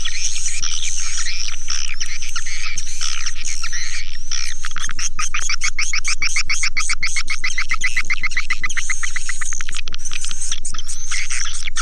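Swiftlet lure call recording: a dense, loud chorus of high swiftlet chirps and twitters. About five seconds in, it breaks into a fast, even trill of about ten chirps a second that lasts roughly five seconds.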